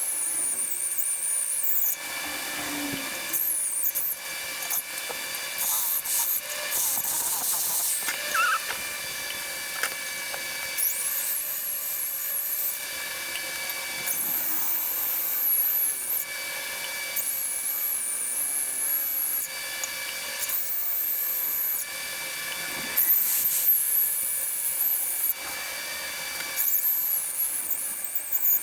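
Angle grinder running steadily with a constant whine, broken every few seconds by passes of grinding on steel plate that add a harsh, wavering high-pitched edge.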